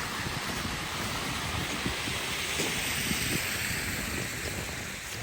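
Outdoor street noise with wind buffeting the microphone. A broad hiss swells in the middle and fades toward the end, typical of traffic passing on a snowy street.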